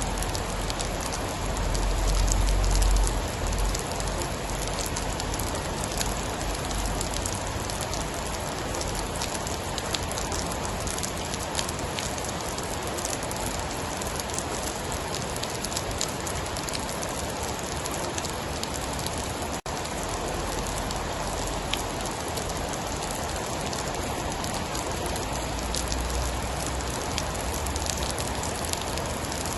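Steady heavy rain falling on a surface, a dense hiss full of small drop ticks. A low rumble swells briefly about two seconds in and again near the end, and the sound cuts out for an instant about twenty seconds in.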